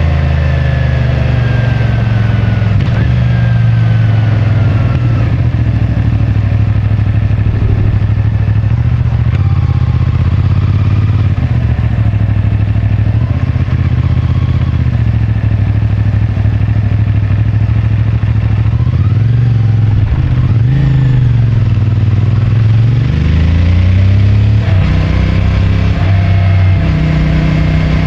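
CFMoto 450MT's parallel-twin engine running through its stock exhaust while riding in town. The engine note eases down and picks up again with the traffic, with a clear drop and then a rise about two-thirds of the way through.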